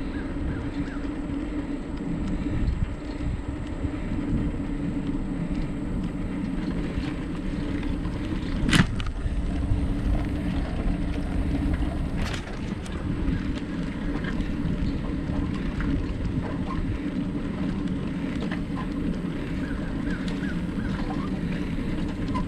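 Steady rolling noise of a bicycle ride on a trail, with tyre rumble and wind on the microphone. A sharp knock comes about nine seconds in and a lighter one a few seconds later.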